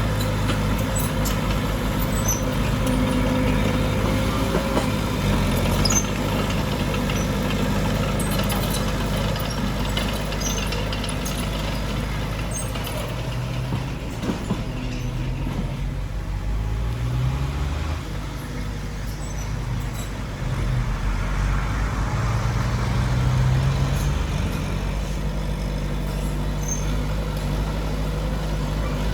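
Heavy diesel earthmoving machinery running under load. Its engine pitch rises and falls several times in the second half as the throttle changes.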